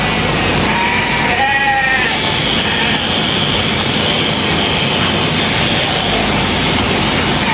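Sheep-shearing clippers running steadily, with a sheep bleating briefly about one to two seconds in.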